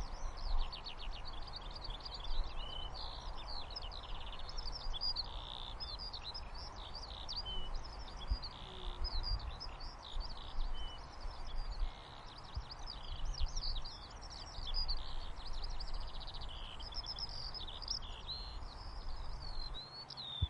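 Many small birds chirping and trilling without pause, over a steady background hiss of white noise.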